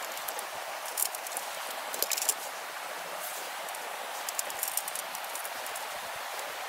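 Wood fire crackling, with sharp pops in small clusters over a steady hiss.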